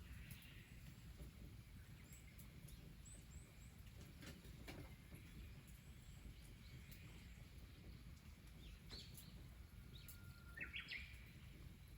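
Faint birds calling outdoors in the countryside: a few short high chirps about 3 s in, and louder chirping calls twice near the end, over a low steady rumble, with a couple of faint clicks in the middle.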